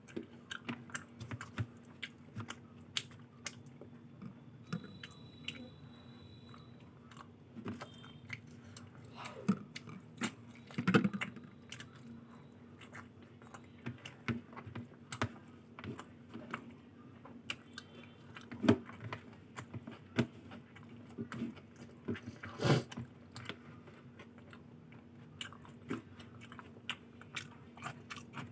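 Close-miked chewing and eating: irregular wet mouth clicks, smacks and bites as soft fried luchi with ghughni and aloo dum is chewed, over a faint steady low hum.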